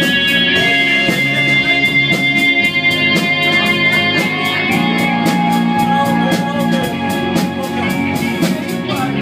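Rock music, an instrumental passage between sung lines: long held electric-guitar tones over a bass line and a steady drum beat.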